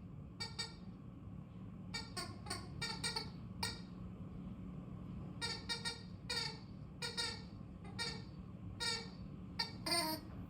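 Squeaky dog toy being chewed by a Samoyed puppy: quick clusters of short, high squeaks, several bites at a time, coming in irregular bursts.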